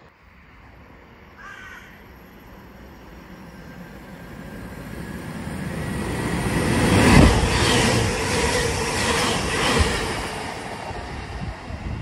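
Multiple-unit passenger train running through the station: the rumble builds, is loudest about seven seconds in and eases off after about ten. A bird calls once about a second and a half in.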